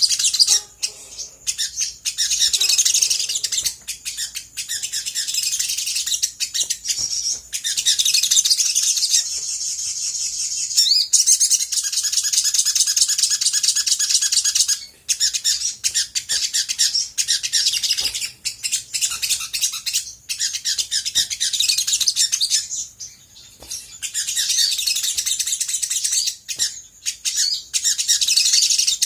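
Olive-backed sunbird singing a fast, almost nonstop run of high chirps and trills, broken by a few short pauses. This is a lure song meant to set other sunbirds answering.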